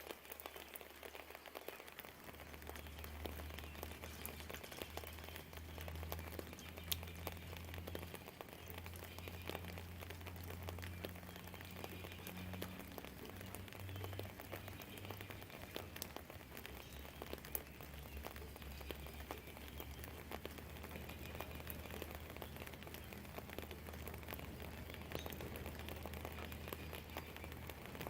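Steady rain falling, with many small drop clicks. From about two seconds in, a low rumble runs underneath.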